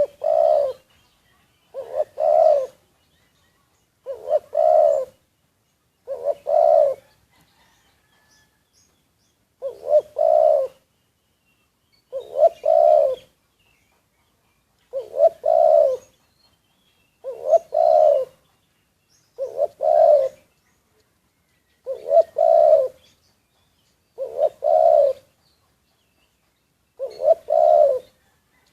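Caged spotted dove kept as a decoy bird, cooing over and over: about a dozen short phrases of a few low coos each, one every two seconds or so, with a slightly longer pause about a third of the way through.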